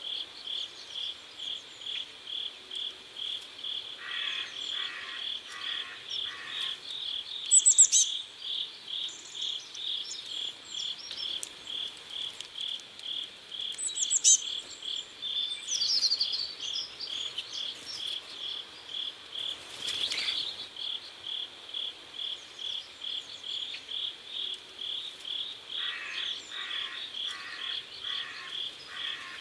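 Crickets chirping in a steady, even pulse throughout. A few brief high chirps stand out about a quarter and half of the way through, and twice a short run of lower pulses joins in.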